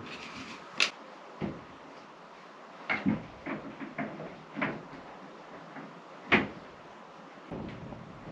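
Irregular knocks and clunks of things being handled and set down, about eight in all, with the loudest a sharp knock about six seconds in.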